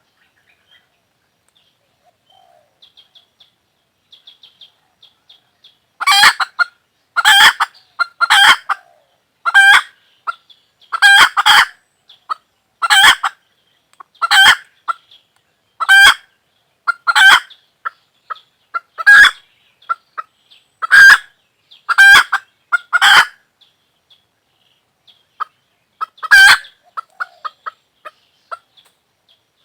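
A chicken calling loudly over and over, roughly one call a second for a stretch, with faint short high calls before and between them.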